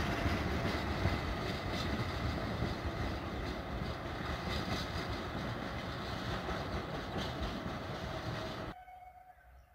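Diesel track-maintenance train running away over the rails: engine rumble and wheel noise fade slowly, with a few faint wheel clicks. Near the end the sound cuts off suddenly to a faint outdoor background.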